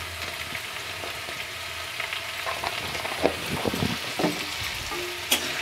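Diced potato, brinjal and onion frying in hot oil in a metal kadai: a steady sizzle, with a few light clicks in the second half and a sharp click near the end.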